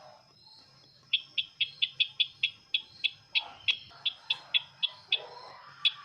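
Sisintar ladang bird call, as played for bird luring: a quick series of about sixteen short, sharp chip notes, roughly four a second, starting about a second in, with one more note near the end. A faint steady high tone runs underneath.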